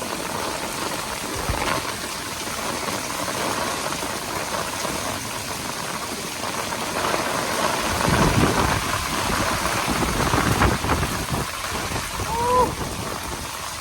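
Wind-driven rain hissing steadily, with strong gusts buffeting the microphone in low rumbles about eight to eleven seconds in. A short high squeak sounds briefly near the end.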